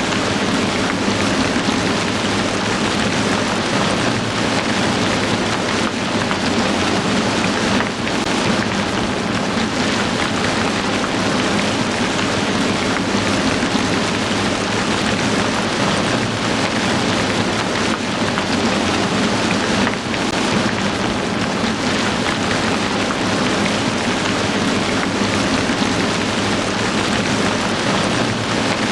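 Heavy rain falling steadily, a dense, even downpour hiss.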